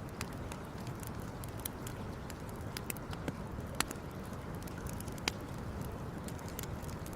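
Wood campfire crackling: irregular sharp pops and snaps, a few louder than the rest, over a steady low rush.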